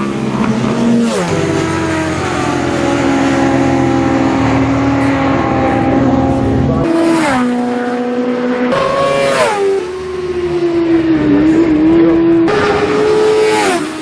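Classic superbike racing motorcycle engines running at high revs, the pitch holding steady then dropping sharply several times as the riders change gear.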